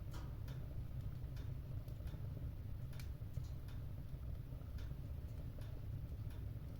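Wood fire in a fireplace crackling: scattered, irregular sharp pops and snaps over a steady low rumble.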